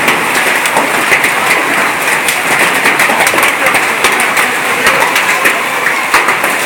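Heavy rain falling, a loud steady hiss dense with sharp drop impacts.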